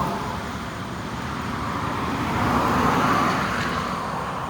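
Road traffic passing close by: a vehicle's rushing tyre and engine noise fades out, and another swells up and passes about two and a half to three seconds in.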